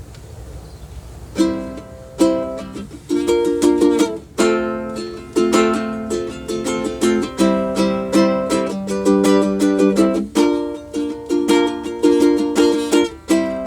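Solo ukulele playing chords in a steady rhythm, starting about a second and a half in, in a small room.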